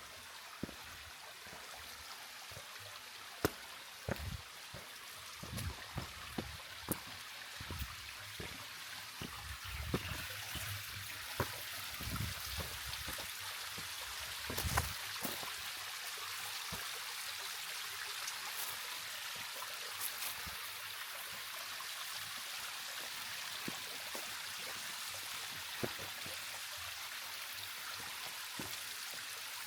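Mountain water rushing steadily, a constant hiss that grows a little louder over the first half. Scattered low thumps and knocks sound through the first half, then stop.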